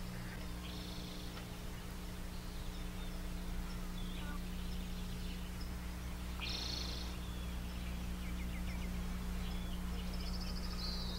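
Birds chirping faintly in short calls every few seconds, with a brief trill near the end, over a steady low electrical hum in the recording.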